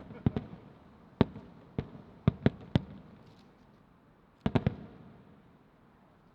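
Aerial firework shells bursting: a string of about eleven sharp bangs, irregularly spaced, each followed by a brief low rumble. The last three come in quick succession about four and a half seconds in.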